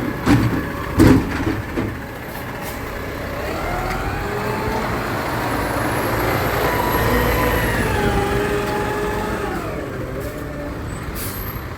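Garbage truck's diesel engine revving up and then slowly back down over several seconds, after a few knocks at the start. A few short hisses from the truck near the end.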